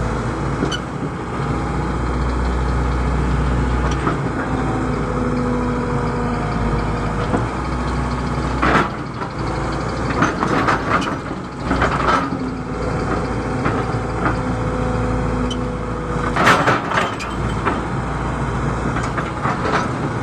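Excavator's diesel engine running steadily under working load, with several short, harsh noisy bursts over it from the machine at work in the ditch, the loudest about two thirds of the way through.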